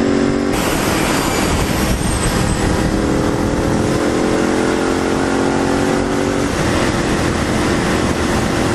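Motorcycle engine pulling along at road speed under heavy wind rush on the microphone. Its note breaks off about half a second in as with a gear change, climbs slowly in pitch, then settles to a steadier note about two-thirds of the way through.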